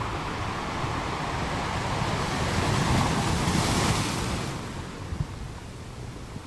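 Ocean wave washing in: a rush of water that swells to its loudest about three to four seconds in, then dies away.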